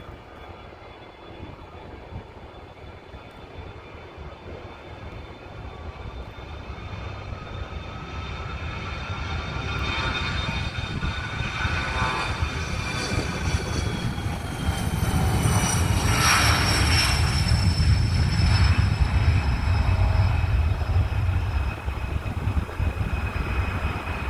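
CRJ-200 regional jet's twin turbofan engines at takeoff power: a deep rumble that grows steadily louder, with a whine that glides down in pitch over the second half.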